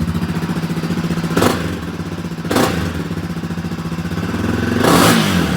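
250 cc motocross bike engine running at idle and blipped three times: short revs about one and a half, two and a half, and five seconds in, the last one longer and falling back to idle.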